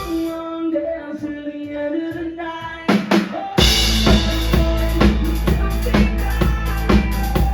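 Live rock band playing: the drums drop back for a stretch of held pitched notes, then a few drum hits about three seconds in lead to a loud cymbal crash as the full kit comes back in with a steady beat.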